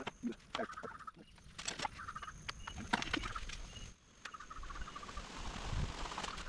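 Domestic fowl calling in short, repeated calls, among scattered clicks and rustles.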